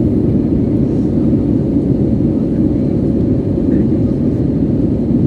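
Steady cabin roar inside an Airbus A320 in flight: engine and airflow noise, heaviest in the low-middle range, with a faint steady hum running through it.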